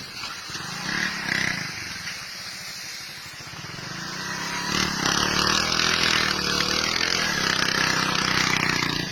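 Heavy truck engine running under throttle, growing louder about five seconds in and holding there.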